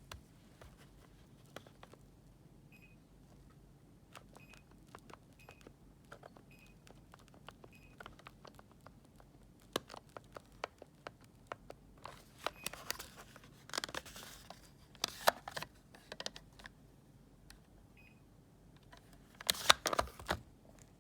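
Buttons on a Daikin air conditioner remote clicking, with several short high beeps answering the presses. Louder rustling and handling noise comes in the second half.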